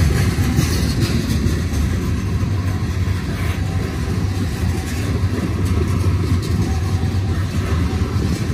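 Freight train's covered hopper cars rolling past close by: a steady low rumble of steel wheels on rail.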